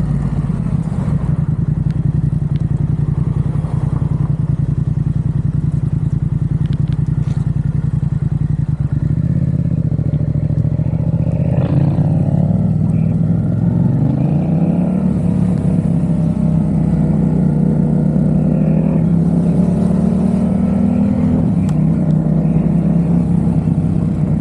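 Yamaha XSR700's parallel-twin engine running through a Mivv aftermarket exhaust, a steady note at first, then from about nine seconds in the pitch rises in several steps as the bike accelerates, before holding higher.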